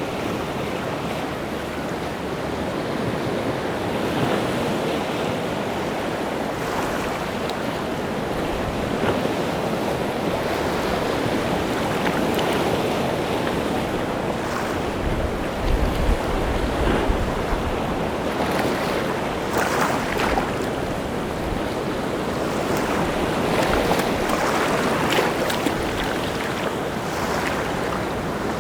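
Rough sea surf breaking on the shore in a steady, swelling wash of waves. Wind buffets the microphone in a deep rumble about halfway through.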